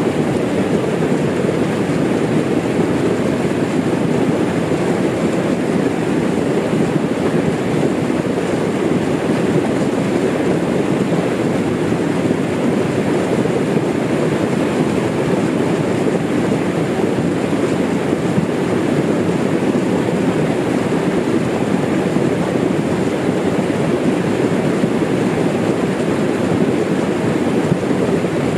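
Small waterfall and its stream rushing steadily and loudly, an even wash of water noise without a break.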